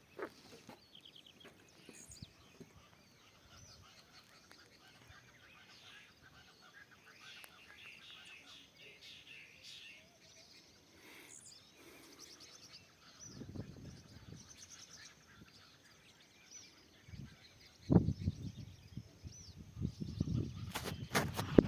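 Small wild birds chirping and singing faintly in scattered short high calls amid quiet woodland ambience. Near the end, louder low rumbling noise on the microphone covers them.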